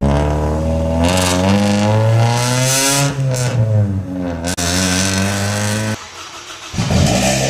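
Car engine revving through a loud exhaust, its pitch rising and falling several times, cut off abruptly about six seconds in, followed by a quieter, different engine sound.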